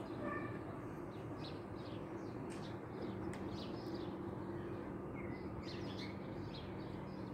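Small birds chirping in short, scattered calls, over a steady low background hum.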